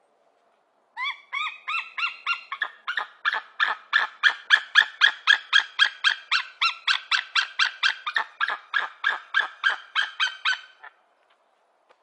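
White-tailed eagle calling: a long run of short, rapid call notes, about three or four a second, starting about a second in and lasting some ten seconds.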